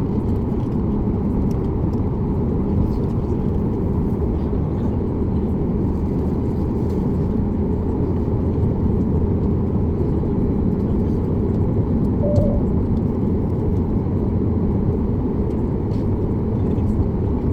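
Steady engine and airflow noise heard inside the cabin of a Boeing 737 MAX 8, a low even rumble from its CFM LEAP-1B turbofans. A brief faint tone sounds about twelve seconds in.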